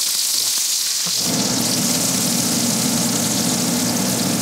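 Breaded sardines frying in hot oil in an enameled cast iron pan: a steady, hissing sizzle. About a second in, a low steady hum comes in under it.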